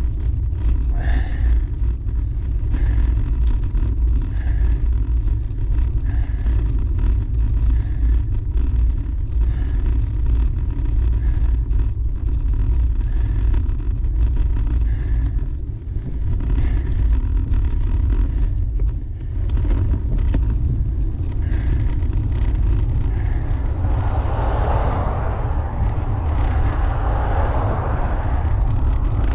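Wind buffeting the microphone of a camera on a moving road bicycle, a steady low rumble mixed with road noise. A louder rushing swell builds and fades near the end.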